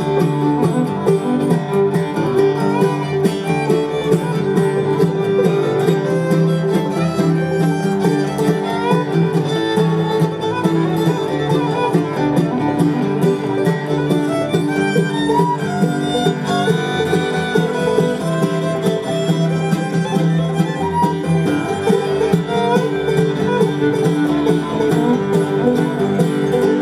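Bluegrass band playing an instrumental break, a fiddle carrying the melody over acoustic guitar rhythm.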